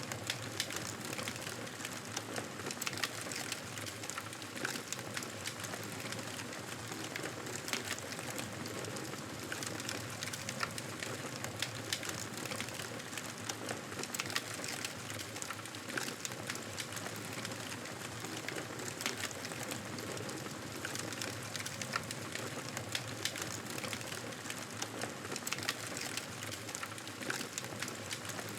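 Fire crackling steadily: a constant hiss with frequent small, irregular pops.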